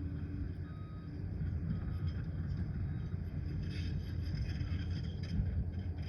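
Liebherr PR 746 crawler dozer's diesel engine running steadily with a low rumble, with a few short metallic clinks and rattles about four and five seconds in.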